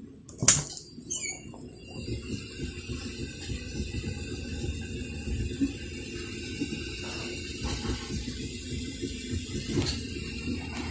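3D printer running mid-print: a steady whir of stepper motors and cooling fans with faint high whining tones, after two sharp clicks about half a second and a second in.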